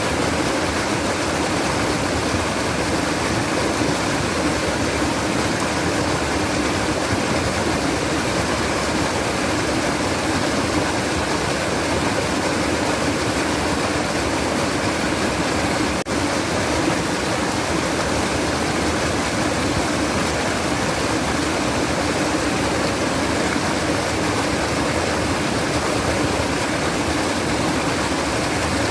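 Running water of a stream, a steady, unbroken rush, with a brief dropout about sixteen seconds in.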